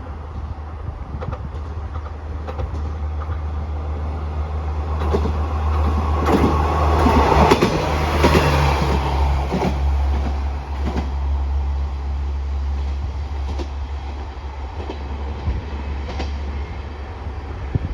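JR Kyushu KiHa 140 diesel railcar passing, its diesel engine running with a steady low drone while the wheels click over the rails. The train noise swells to its loudest about seven to nine seconds in, then eases off.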